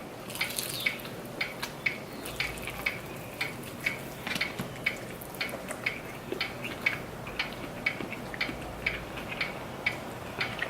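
Close-up chewing of chicken wings, with soft, even mouth clicks about twice a second.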